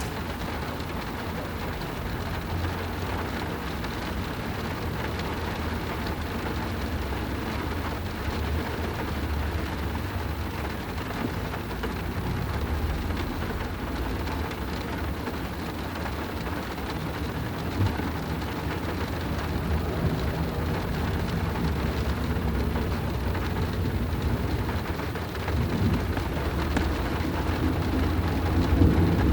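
Rain falling on a car, heard from inside the cabin: a steady patter with a deep rumble underneath, growing a little louder near the end.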